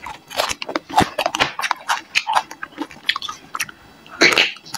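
Close-miked chewing and biting on crisp-skinned roast suckling pig head: irregular crunching and clicking mouth sounds, with a louder bite about four seconds in.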